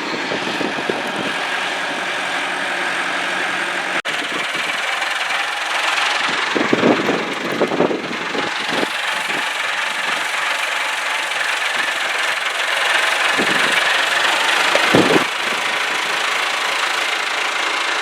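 Engine of the machine lifting the lathe off the truck with its forks, running steadily, with a few low thuds about seven and fifteen seconds in.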